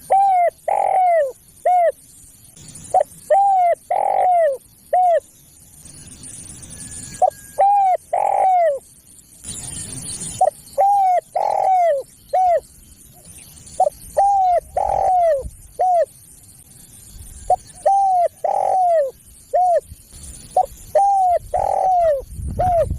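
Spotted dove (tekukur) cooing: the same phrase of several short, arched coo notes repeats about every three to four seconds. This is a lure call for drawing in wild spotted doves.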